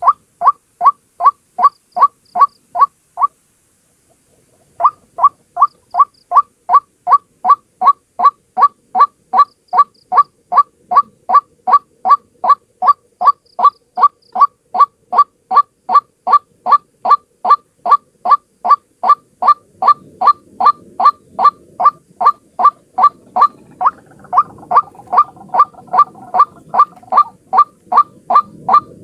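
White-breasted waterhen (ruak-ruak) calling in a fast, steady series of sharp repeated notes, about two and a half a second. The calls break off for a second or so about three seconds in. From about two-thirds of the way through, a low rumbling noise runs underneath, and a second, lower call overlaps for a few seconds.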